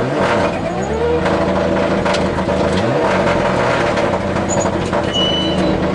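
Rally car engine heard from inside the cabin at speed, its revs climbing and dropping several times as the driver works through the gears, over steady road and wind noise.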